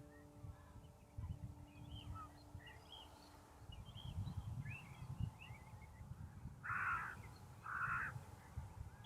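A crow cawing twice, about seven and eight seconds in, each caw harsh and about half a second long, over scattered high chirps of small birds and a low rumble.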